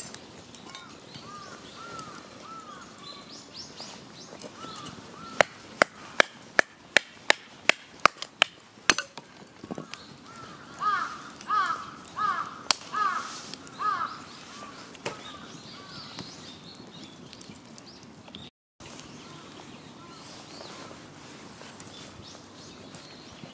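About a dozen sharp, evenly spaced knocks, roughly three a second, of firewood being chopped. A crow then caws several times.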